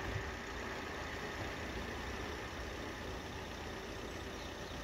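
Vehicle engines idling steadily at a low level.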